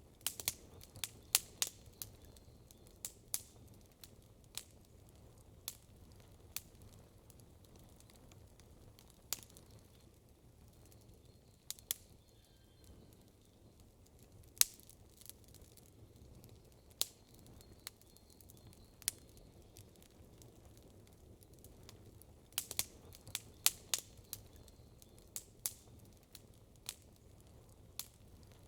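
Wood campfire crackling: irregular sharp pops and snaps over a faint steady low background, with quick runs of crackles near the start and again about three-quarters through.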